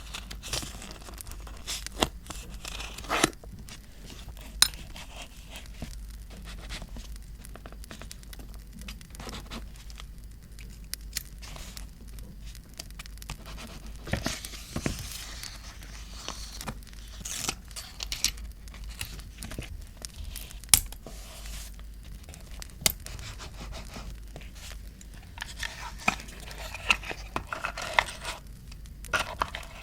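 Paper being handled for scrapbooking: rustling, crinkling and tearing, with scattered sharp ticks and taps throughout and a longer rustle about halfway through.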